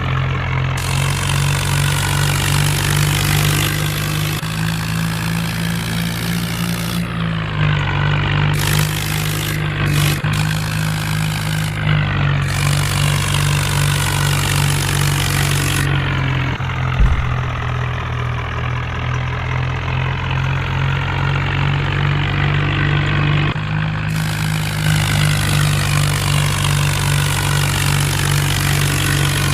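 Diesel tractor engine running steadily, its note stepping up and down several times as the revs change, with one sharp knock around the middle.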